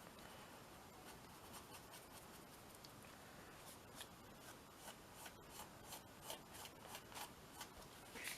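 Faint scratchy strokes of a colouring or painting tool rubbed over a small canvas, coming about two or three a second from about three and a half seconds in, over a quiet background hiss.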